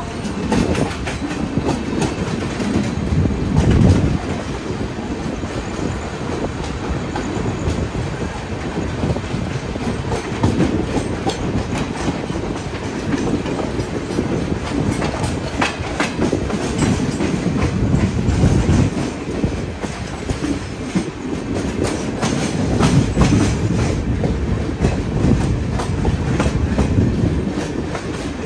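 Passenger trains running side by side at speed: a steady, loud rolling rumble of steel wheels on the rails, with repeated clickety-clack as the wheels pass over rail joints, swelling and easing every few seconds. It is heard from aboard one of the moving coaches.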